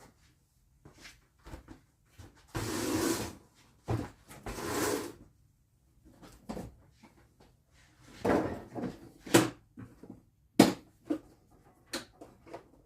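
Wooden parts and tools handled on a workbench: a run of knocks and clicks, with two short scrapes about three and five seconds in.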